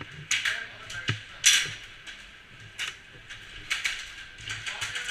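Airsoft guns firing: scattered single shots, then a rapid full-auto burst of sharp clicks near the end.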